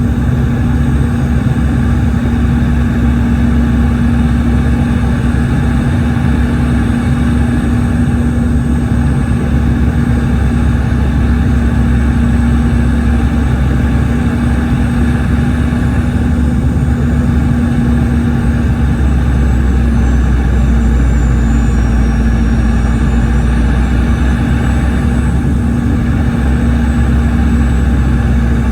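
Cabin noise inside a Boeing 717 in flight, heard from a rear seat near its two tail-mounted Rolls-Royce BR715 turbofans. It is a steady loud drone with a constant hum, and the low rumble grows heavier about two-thirds of the way through.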